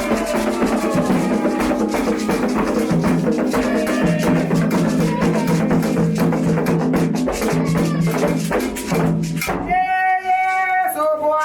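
Candomblé ritual music: hand drums and a rattle played at a fast, steady beat under group chanting. About ten seconds in the percussion stops and a single voice carries on singing alone.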